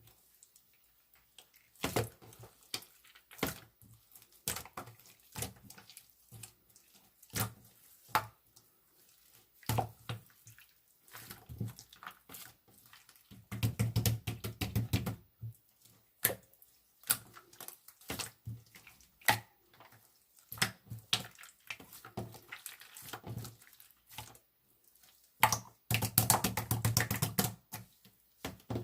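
Irregular small clicks and taps of objects being handled, with two denser flurries of rapid clicking, one about halfway through and one near the end.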